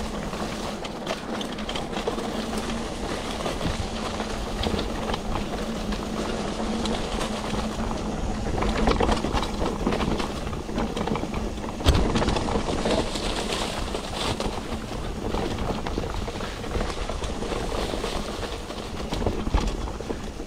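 Mountain bike ridden over a rough dirt trail: continuous tyre and rattle noise with many small knocks from the bumps, and one sharp loud jolt about twelve seconds in.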